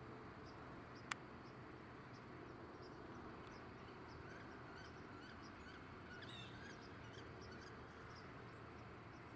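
Faint insects, likely crickets, chirping steadily at about two short high chirps a second, with one sharp click about a second in and a few faint bird calls around the middle.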